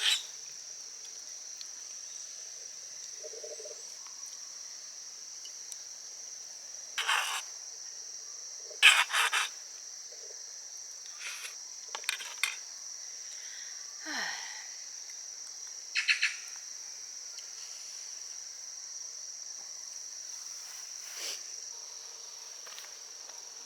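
Insects, likely autumn crickets, chirring steadily in a high, even drone. Short knocks and clatters break in every few seconds, the sharpest about nine seconds in.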